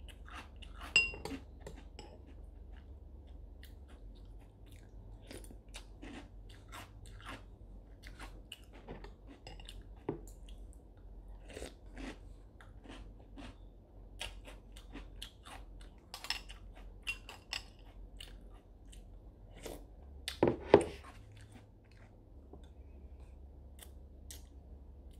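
Crunchy breakfast cereal being chewed, in short crisp crunches throughout, with one louder knock about twenty seconds in.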